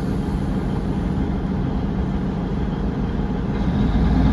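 British Rail Class 150 diesel multiple unit heard from inside the carriage: its underfloor Cummins diesel engine running with a steady low rumble, growing a little louder near the end.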